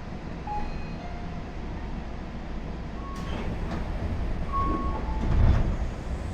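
Inside a Tobu 30000 series electric train car: a steady low rumble with several short high tones, a sharp click a little after three seconds in, and a heavier low thump about five and a half seconds in.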